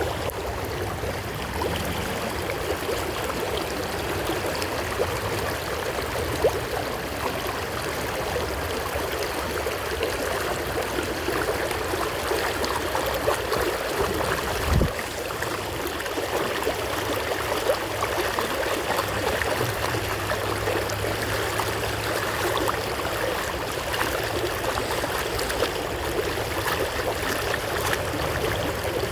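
Creek water running steadily, with a dull low thump about halfway through.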